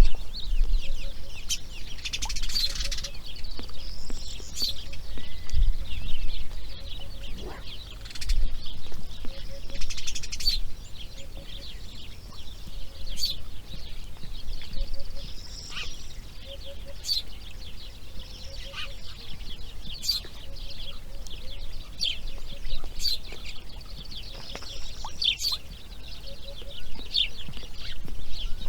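Wild birds calling: many short, high chirps and calls come one after another, with a soft low note in little groups of two or three that repeats about once a second throughout.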